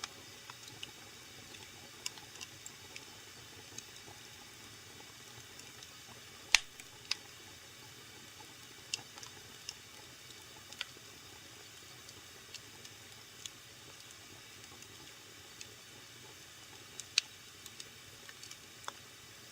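Fire burning in a fireplace, crackling: irregular sharp pops and snaps over a soft steady hiss, the loudest pop about six and a half seconds in.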